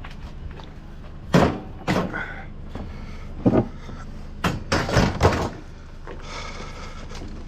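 Scrap pieces being handled and loaded: a string of separate bangs and thuds, about six in all, and then a short scraping noise near the end.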